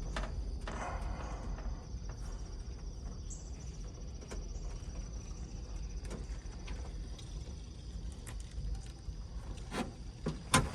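Crickets chirping in a steady, fast high trill, with a few scattered clicks and knocks over a low rumble.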